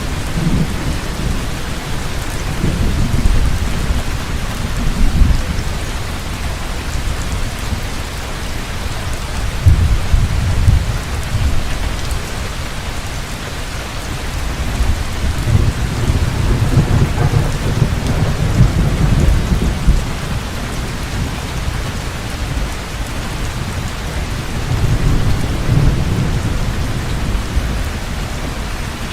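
Heavy rain falling steadily with thunder rumbling low several times, the rolls swelling and fading, strongest about a third of the way in and again past the middle.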